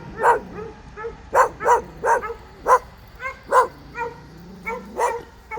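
Bird dogs barking repeatedly, about two short barks a second at an uneven pace.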